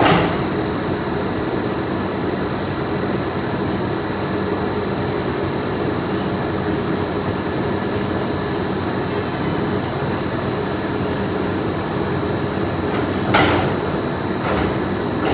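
Pipe-factory machinery running with a steady din and a constant high whine. There is a sharp clank at the start, another about thirteen seconds in, and a fainter one a second later.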